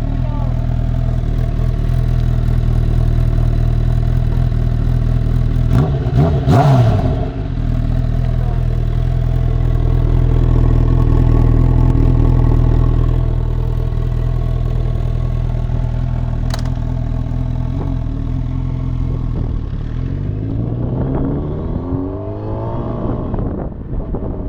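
Honda CB1000R inline-four running through a Laser GP Extreme aftermarket exhaust: a steady idle, a quick blip of the throttle about six seconds in, then rising and falling revs near the end.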